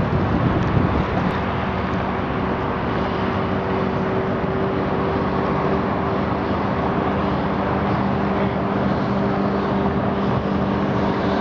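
90 hp Mercury outboard motor running at a steady speed, an even hum over a steady rushing noise as the boat moves.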